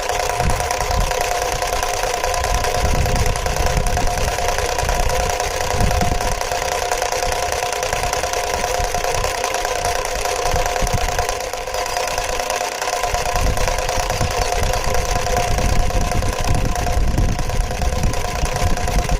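Homemade three-cylinder triangle piston engine model, driven by an electromagnetic motor, running steadily: a constant whine of several tones over an uneven low clatter from the pistons and crank.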